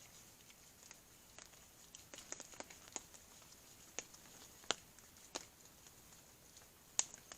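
Hands being washed with soap and water: faint rubbing and water dripping, with scattered soft ticks of falling drops.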